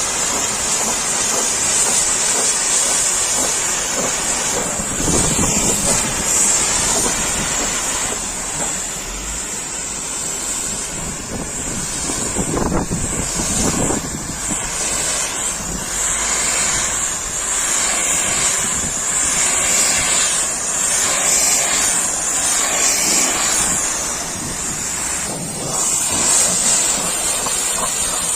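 Pressure washer jet spraying water, a continuous loud hiss with small swells and dips in loudness.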